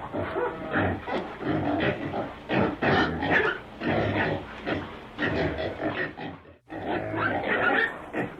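Domestic pigs grunting, a rapid run of short rough grunts that breaks off briefly about two-thirds of the way through.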